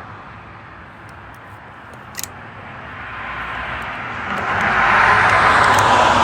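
Outdoor noise of a passing vehicle: a steady background that swells into a loud rushing sound over the last couple of seconds, then the audio cuts off abruptly.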